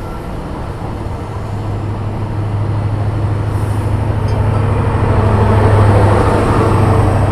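A train approaching, its running noise growing steadily louder over about six seconds over a strong low hum, then holding.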